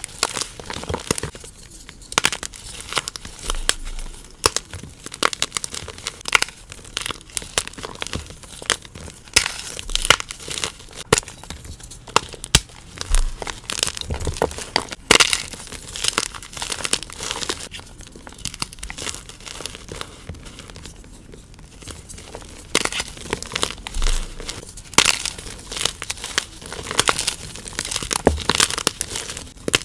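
Gym chalk cubes being crushed and crumbled, a continuous run of dry, crunchy crackling.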